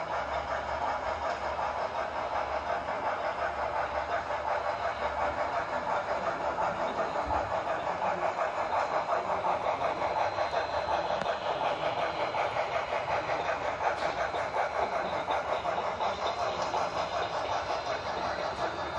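Digital sound decoders in two HO scale model steam locomotives, run double-headed, playing fast, steady exhaust chuffing through their small onboard speakers.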